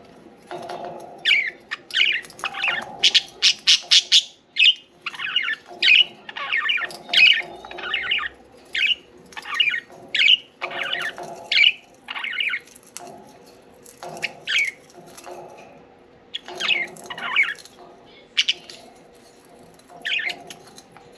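Budgerigars chirping and chattering: a run of short, squawky calls in quick clusters, with brief pauses between them. A faint steady hum sits underneath.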